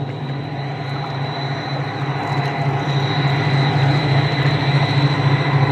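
Steady low drone of a towboat's diesel engines pushing a barge tow, growing slightly louder.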